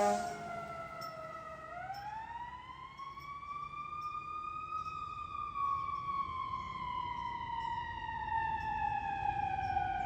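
Fire truck siren wailing: its pitch dips, rises for about three seconds, then falls slowly for the rest of the time, over a low rumble.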